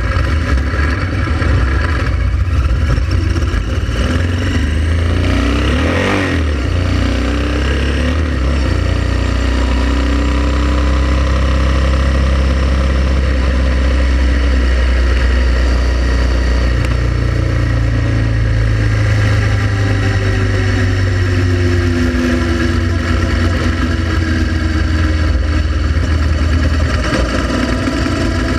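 Honda Transalp XL700 V-twin motorcycle engine running under way, its pitch rising and falling slowly with the throttle, with a brief louder surge of noise about six seconds in.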